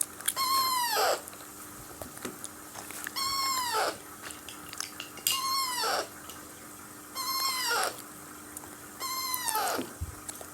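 Hungry Alexandrine parakeet chick begging for food: five drawn-out calls about two seconds apart, each dropping in pitch at its end.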